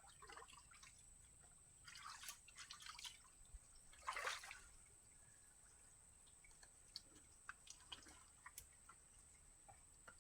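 Quiet, scattered drips and small splashes of muddy water in a drained pond, with a louder splash about four seconds in.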